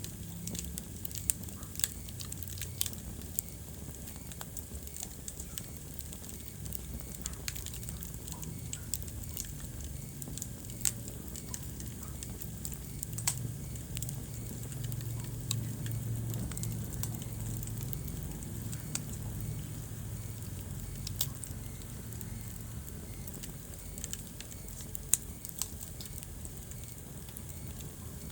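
Wood fire burning in a fireplace: a low steady rumble of flames with irregular crackles and occasional sharper pops.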